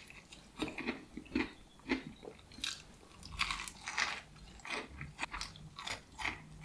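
A person biting into and chewing a crispy fried KFC hot wing, the breaded coating crunching in an irregular run of crackly bites.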